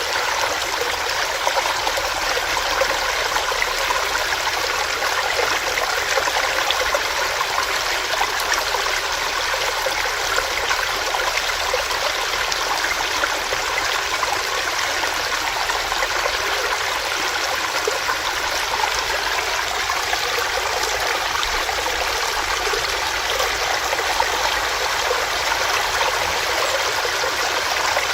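Small stream running over rocks, a steady rushing and splashing of water.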